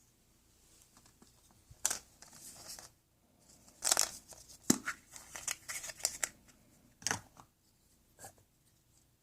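Irregular handling noises: short scraping, snipping and crinkling sounds with sharp clicks, heaviest about four to six seconds in.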